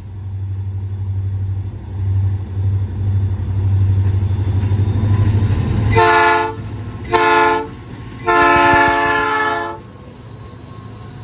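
EMD SD40-2 diesel freight locomotives approaching, their engines a low drone that grows louder, then sounding the air horn three times: two short blasts and a longer one of about a second and a half, a chord of several tones.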